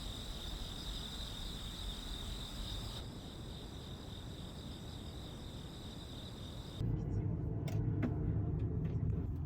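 Night insects chirping steadily in a fast pulsing trill. About seven seconds in, the sound cuts abruptly to a low steady rumble with a few sharp clicks.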